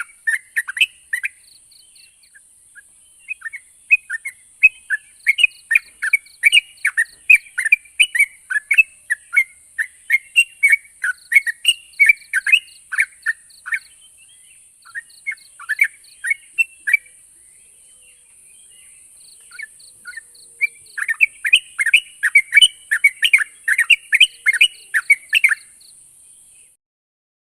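Sooty-headed bulbul (trucuk) song: rapid runs of short, bright chattering notes in phrases broken by brief pauses, over a steady high hiss. The sound cuts off abruptly near the end.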